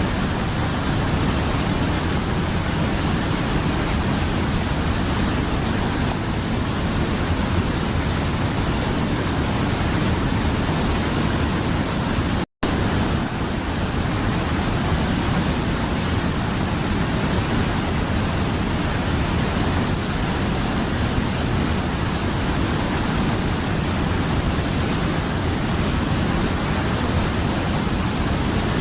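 Mountain river water flowing and rushing over rocks: a dense, even rush with no change in strength, cut off for a split second once about halfway through.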